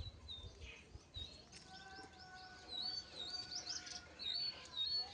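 Birds chirping: a run of short, high chirps and quick rising and falling notes that get busier and louder about halfway through.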